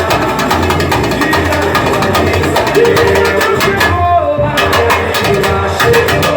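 Samba-enredo with a samba percussion section: a steady low drum pulse under dense, sharp tamborim-style strikes and held melody notes. The sharp strikes drop out for about half a second around four seconds in, then return.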